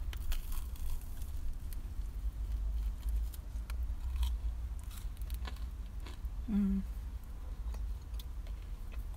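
Close-up crunching and chewing of a toasted ham and cheese sandwich: scattered crisp crunches of the toasted bread as it is bitten and chewed, over a steady low rumble. A brief hum of voice comes about six and a half seconds in.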